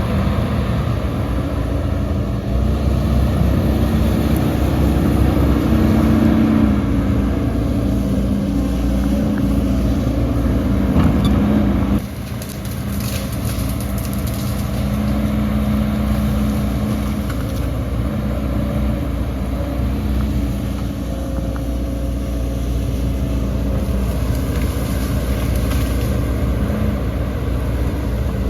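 Heavy diesel earthmoving machinery running under load, its engine note shifting in pitch as it works, with an abrupt drop in level about twelve seconds in.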